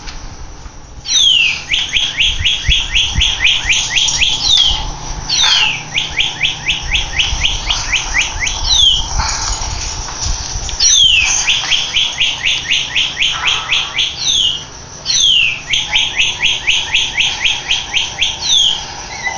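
Recorded northern cardinal song playing on a loop from a red toy bird. Each phrase is a downward-sweeping whistle followed by a quick run of about ten short notes, and the phrase repeats four times almost identically.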